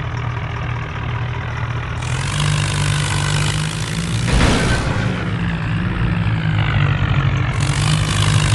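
HMT tractor's diesel engine running steadily, with one brief sharp knock about four and a half seconds in.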